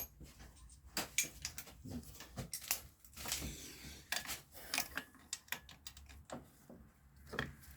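Irregular light metallic clicks and clinks of hand tools: a socket on a wobble extension being fitted and worked onto a starter mounting bolt.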